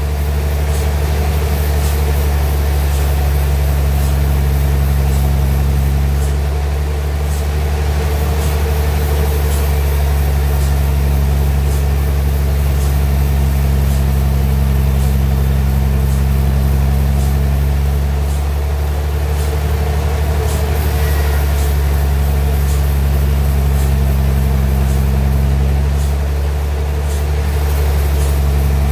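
Engine of a homemade sawmill running steadily with a loud low hum, easing off slightly a few times.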